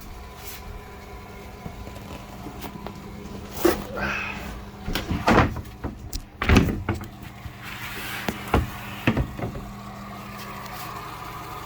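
Several sharp knocks and clunks of the engine-room hatch being opened and handled, over a steady mechanical hum.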